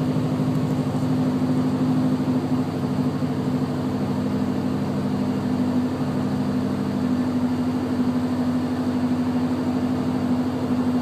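Car engine idling steadily, heard at a quad-tip exhaust, with an even low burble.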